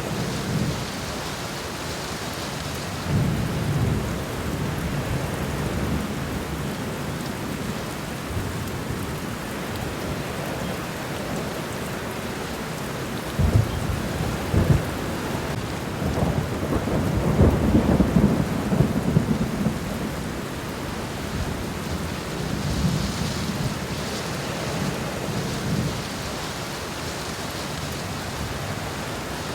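Steady rain falling on the ground and garden plants, a continuous hiss of drops. Low rumbles swell up several times underneath, the strongest a few seconds past the middle, with a couple of sharp low thumps just before it.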